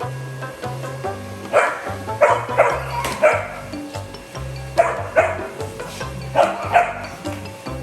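Golden retriever puppy barking, a series of short sharp barks in clusters of two to four, over background music with a slow bass line.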